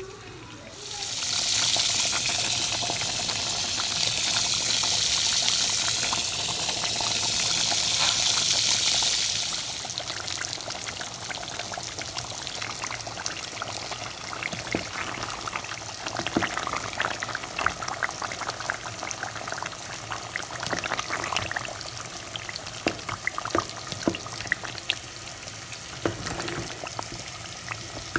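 A loud steady rushing hiss for about eight seconds, stopping abruptly, then lentil-batter fritters (daal bora) frying in hot oil, crackling and popping irregularly.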